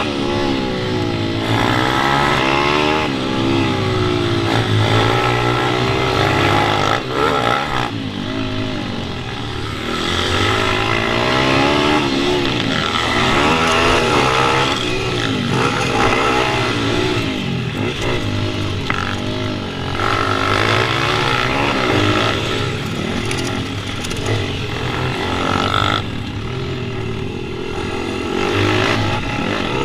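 Pit bike engine revving up and easing off over and over as it is ridden, its pitch rising and falling every second or two.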